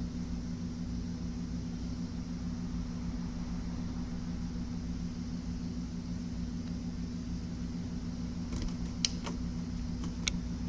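Steady low electrical hum of workbench background noise, with a few light clicks about eight to ten seconds in.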